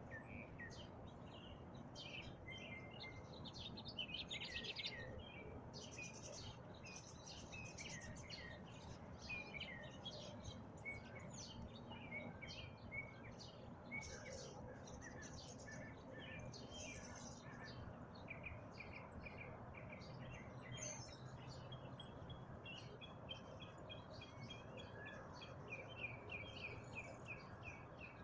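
Northern mockingbird singing a long, varied song of chirps and whistled phrases, ending in a quick, evenly repeated run of one note, over faint steady low background noise.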